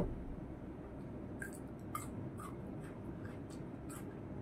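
A glass tumbler set down on the table with a single knock, then faint mouth clicks and lip smacks of someone chewing rice, about two a second.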